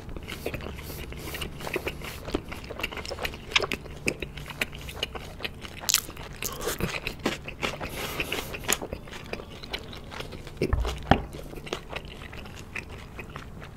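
Close-miked biting and chewing of sauce-glazed Korean fried chicken (yangnyeom boneless chicken): crisp crunches and wet chewing clicks, many per second. A low thump comes about 11 seconds in.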